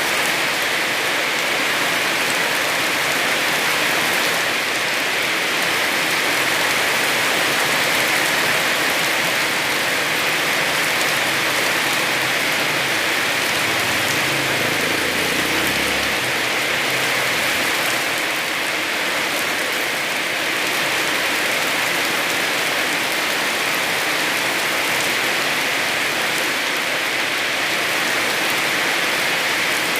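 Heavy rain falling steadily, an even hiss of rain. A brief low rumble comes about halfway through.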